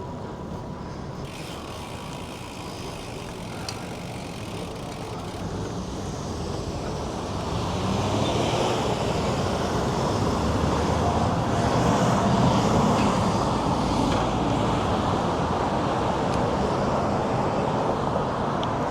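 Road traffic noise heard from a moving bicycle: a steady noisy rush that grows louder about a third of the way through and stays up.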